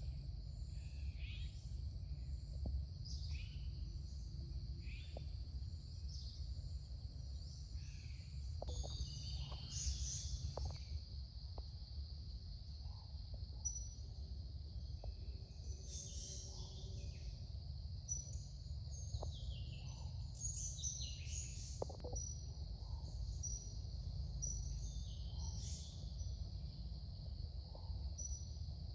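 Tropical forest ambience: a steady high insect drone, with birds calling over it. A short call repeats about every second or so early on, and scattered higher chirps follow later, over a constant low rumble.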